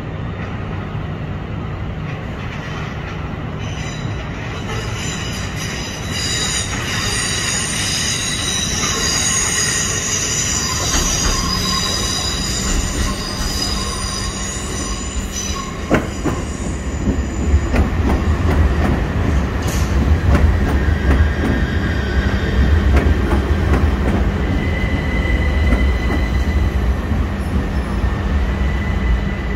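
Class 357 Electrostar electric multiple unit arriving at low speed over curved track. Its wheels squeal from about four seconds in, then the rumble of wheels and running gear grows louder as it draws alongside, with a steady high whine near the end.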